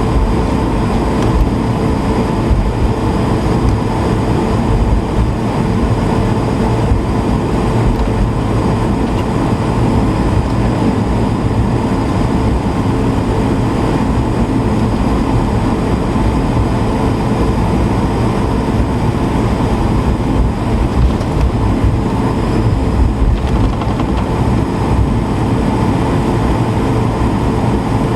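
Airbus A220-300's Pratt & Whitney PW1500G geared turbofans running steadily, heard inside the cabin as a loud, even rumble with a steady hum.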